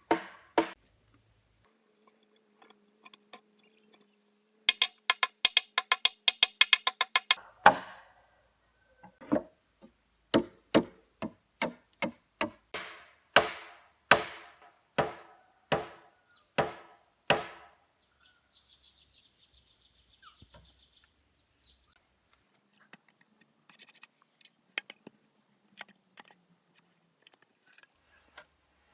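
A hand tool striking wood: first a quick run of light taps, then about a dozen heavier, evenly paced blows, then faint scraping and rustling.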